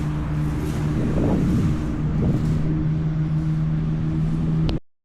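A motor vehicle's engine running at a steady hum, with a brief wavering in pitch between about one and two and a half seconds in; the sound cuts off suddenly near the end.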